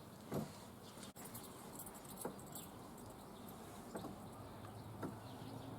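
Faint rain pattering, with a few louder drips landing one by one.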